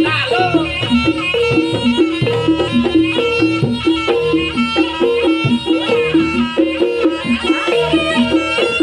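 Live Javanese traditional music for a jaranan-style horse dance: a reedy wind melody with bending notes over a quick, repeating pattern of struck pitched notes.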